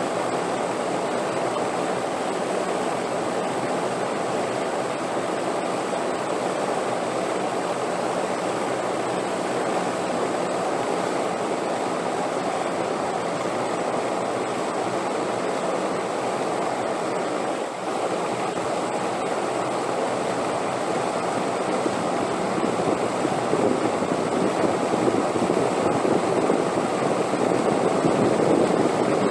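Wind blowing as a steady rushing noise, swelling stronger over the last several seconds.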